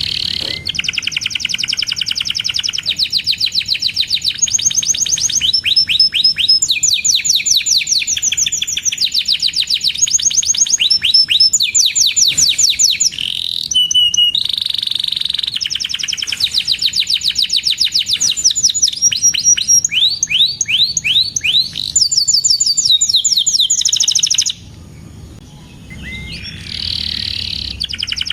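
Domestic canary singing a long, continuous song of fast trills: phrases of rapidly repeated chirps, each phrase changing after a second or two. It drops quieter for a couple of seconds near the end, then picks up again.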